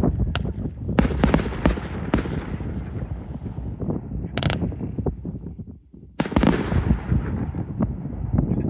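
Fireworks display: rapid crackling and many sharp bangs over a continuous rumble, with a cluster of loud reports about a second in and another loud burst after a brief lull about six seconds in.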